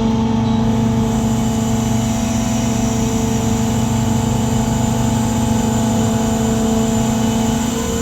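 Engine of a 200-ton lattice-boom crane running steadily under load while hoisting a concrete bucket, with a steady whine held at an even pitch.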